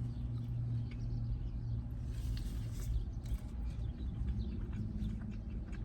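Close-up chewing and wet mouth sounds of someone eating a steak, egg and cheese bagel sandwich, many small clicks and smacks, over a steady low hum.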